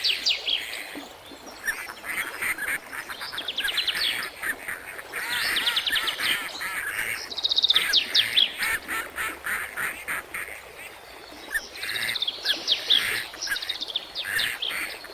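Birds calling in repeated bursts of quick, falling chirps, with short pauses between the bursts.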